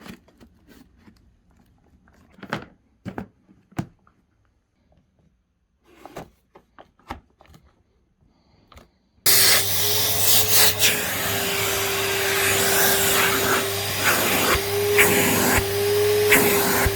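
Scattered clicks and knocks of handling, then about nine seconds in a Henry vacuum cleaner switches on abruptly and runs steadily with a constant whine and low hum. It is running normally after a clogged internal nozzle was cleared.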